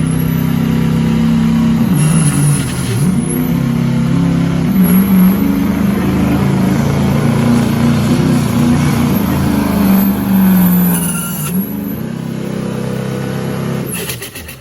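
Diesel pickup truck engine at full throttle under load, pulling a sled, with its 2.6-inch smoothbore turbocharger whistling high above the engine note. The sound drops away sharply near the end.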